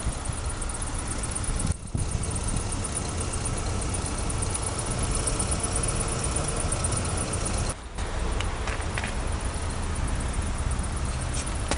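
Steady low rumble of an idling car engine, briefly dropping out about two seconds in and again about eight seconds in.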